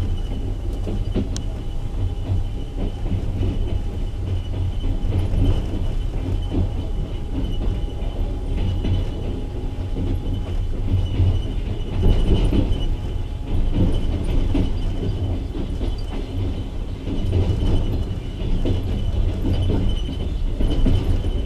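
Passenger train carriage rolling along the track, heard from its window: a steady low rumble of the wheels with irregular clicks and knocks over the rail joints, and a thin steady high whine.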